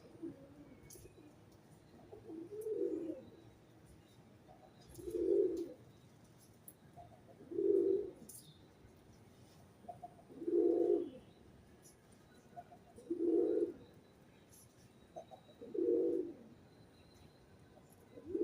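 A pigeon cooing: a low, soft call of under a second, repeated about every two and a half seconds, six or seven times in all. Faint chirps of small birds sound in the background.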